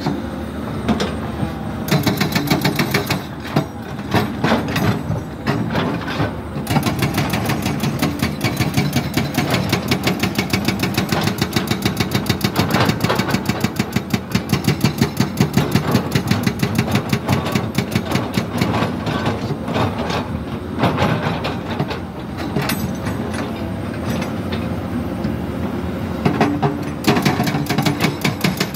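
Komatsu PC200 hydraulic excavator working, its diesel engine running under a hydraulic rock breaker that hammers in long runs of rapid, evenly spaced blows, with steadier stretches between runs.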